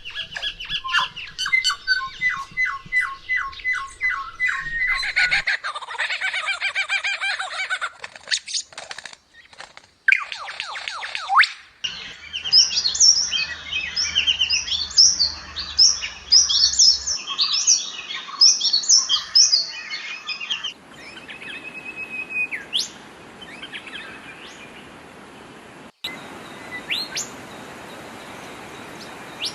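Songbirds singing and calling: rapid repeated trills and short chirps, busiest in the middle, then sparse calls over a steady hiss near the end. The sound changes abruptly several times, where separate recordings are joined.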